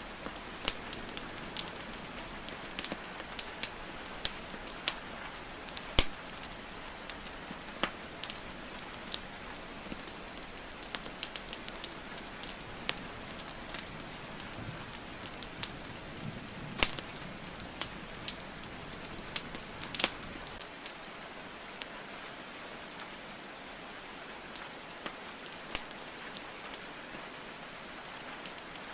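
Wood fire crackling and popping in a fireplace, sharp irregular pops over a steady hiss of rainfall.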